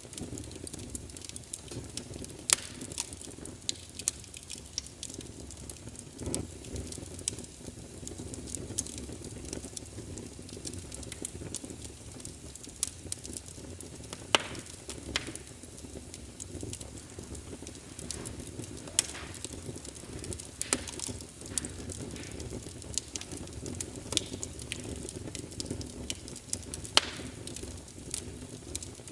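Wood fire burning in a fireplace: a steady low rush of flames with irregular sharp crackles and pops, a few louder snaps scattered through.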